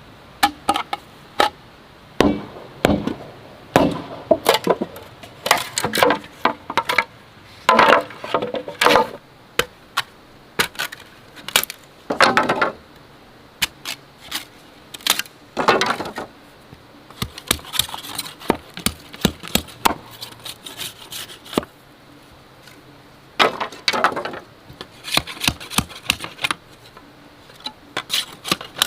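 Bamboo being chopped and cracked with a blade: irregular sharp knocks, some in quick runs and some ringing briefly, with short pauses between.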